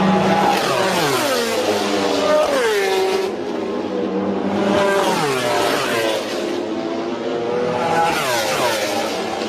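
MotoGP racing motorcycles at full throttle passing at speed, their high-revving engine note sweeping down in pitch three times as they go by.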